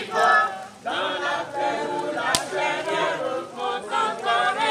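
A group of voices singing a French campfire song together, with one sharp click about halfway through.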